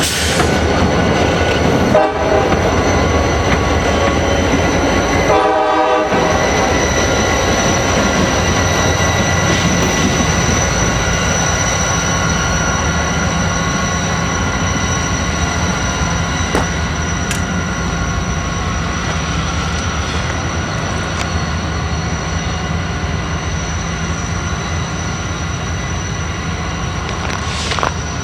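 Freight train rolling by: a steady rumble of wheels on rail with sustained ringing tones over it, slowly growing quieter toward the end.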